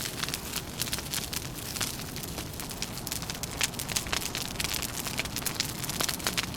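Wood fire crackling, with many sharp, irregular pops over a steady low rumble of wind.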